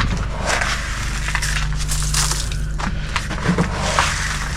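Gritty crunching of rock salt and ice, scattered and stepped on in irregular bursts, over the steady low running of a lawn tractor's engine.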